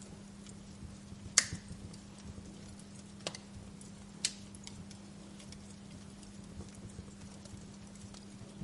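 Wood fire crackling: scattered small ticks with three sharper pops, the loudest about a second and a half in, over a steady low hum.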